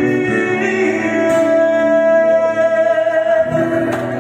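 Slow ballad played by a band: a long sustained note is held over the accompaniment between sung lines.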